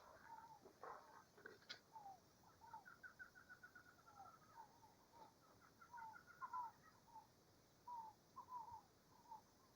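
Songbirds singing faintly: short down-slurred whistled notes, with two runs of quickly repeated trill notes, one a few seconds in and another about two seconds later.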